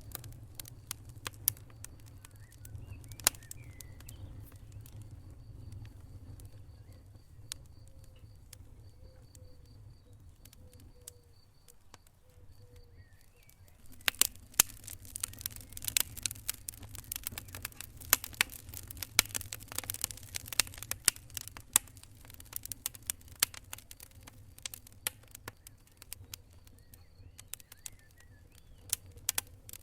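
Wood fire in a fireplace crackling and popping over a low steady rumble of the flames. The pops are sparse at first and come much thicker from about halfway through.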